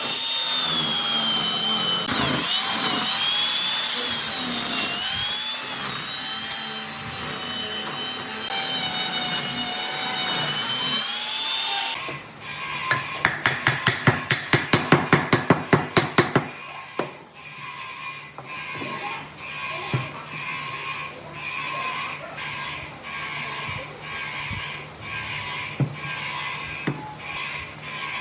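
Woodworking tools in use: a power tool runs with a wavering whine for about twelve seconds, then stops. A quick run of sharp clicks follows, then evenly spaced rubbing strokes a little over one a second.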